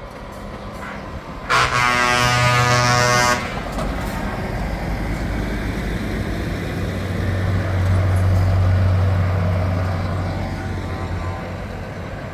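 Truck horn sounds in one buzzy blast of about two seconds. A truck engine then passes, growing louder and fading again.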